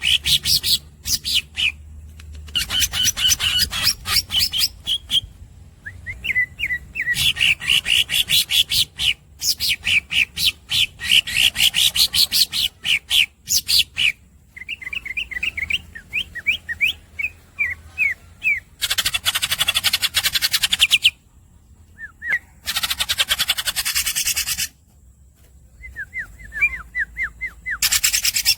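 Green leafbird (cucak ijo) singing: long, fast rattling trills broken by short runs of squeaky up-slurred chirps, with two harsh buzzy bursts of a couple of seconds each about two-thirds of the way through.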